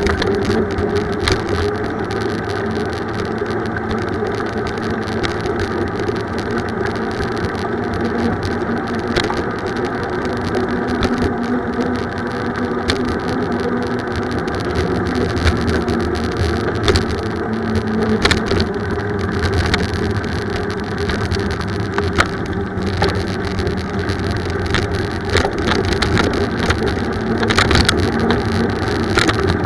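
Steady rumbling road noise of a bicycle ride, with scattered sharp clicks and rattles.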